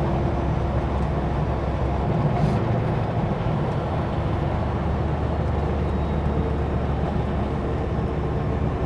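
Kenworth W900L semi truck on the move: steady diesel engine drone and road noise, with the low engine hum shifting about two seconds in.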